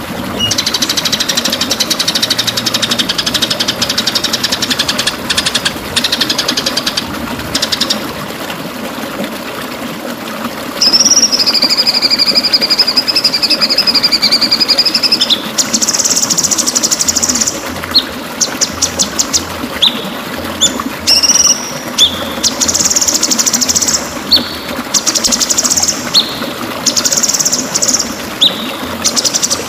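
White-rumped shama (murai batu) singing loudly in varied phrases: fast rattling notes at first, a long held whistle about 11 seconds in, then bursts of rapid high trills and short calls. Underneath is a steady rushing background noise.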